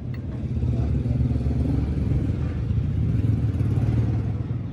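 A low mechanical rumble that builds over the first second, holds steady, and falls away at the end.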